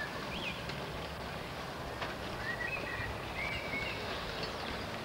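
Outdoor ambience with a steady hiss, and a few short bird chirps about half a second in and again around the middle.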